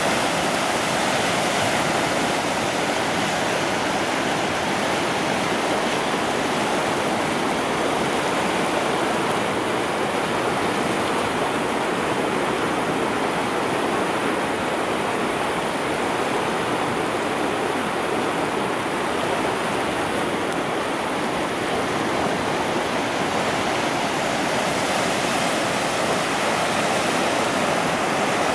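Iruma River water rushing, a steady, unbroken noise.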